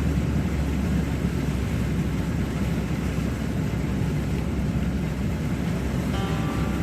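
A van driving with steady engine and road noise, heavy in the low end.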